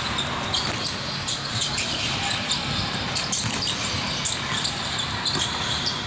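Basketball game sounds in a gym: a ball bouncing on the court, with short high squeaks scattered throughout and the echo of a large hall.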